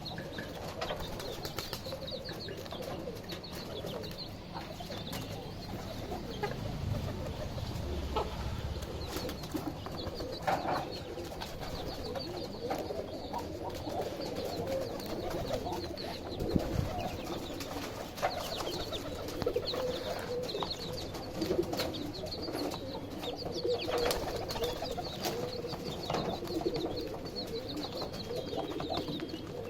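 Baby chicks peeping in short, high chirps over a steady run of low clucking from a mother hen, with a few sharp knocks.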